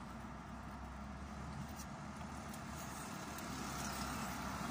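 A steady, low vehicle rumble heard from inside a stationary car's cabin, growing slightly louder toward the end.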